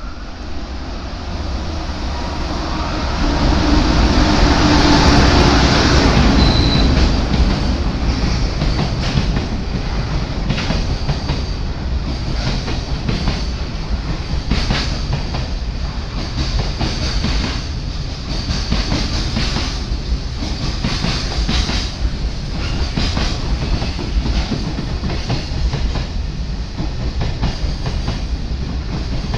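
Container freight train hauled by a red EH500 electric locomotive passing close by. The locomotive goes by loudest about five seconds in, then the wagons follow with a steady, rhythmic clickety-clack of wheels over rail joints.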